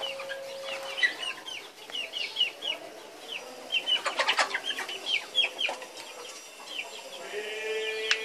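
Birds chirping over and over in short, high, falling notes, several a second, with a lower held note near the start and again near the end. About four seconds in, a brief rustle and clicking of the plastic seedling tray being handled.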